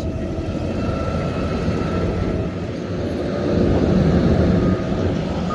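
Garbage truck's natural-gas engine idling steadily, a low even rumble.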